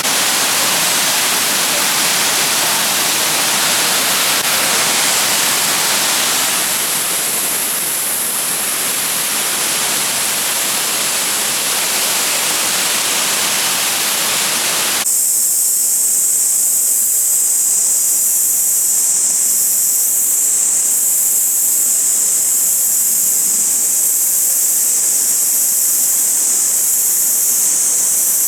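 Shifen Waterfall's water running loudly as a steady, full rushing roar. About halfway through it cuts abruptly to a thin, high-pitched hiss that pulses about once a second.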